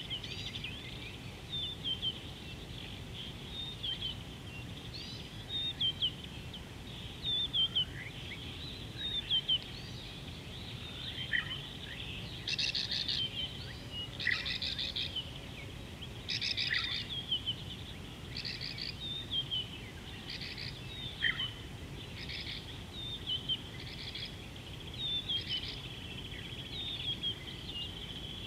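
Several birds chirping and calling over a steady low background rumble. Through the middle comes a run of short, harsh, rasping calls repeated every second or two.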